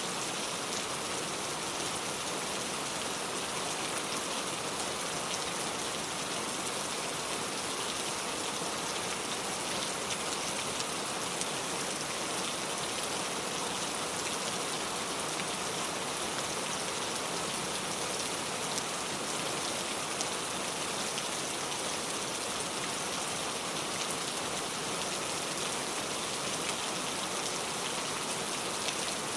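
Steady rain falling: an even hiss of many drops that holds at a constant level throughout, with no thunder.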